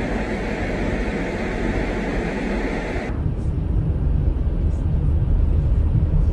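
Steady noise of a vehicle driving on the road, which changes abruptly about three seconds in to a deeper, slightly louder low rumble.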